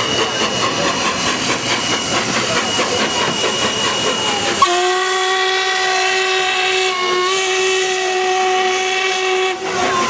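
Steam locomotive whistle blowing one long, steady blast of about five seconds that starts about halfway through and cuts off sharply. Before it there is a steady rushing hiss of escaping steam.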